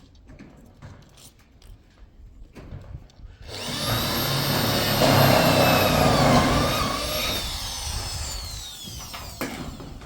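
A small motor running with a whine. It starts suddenly about three and a half seconds in and fades away over the last few seconds.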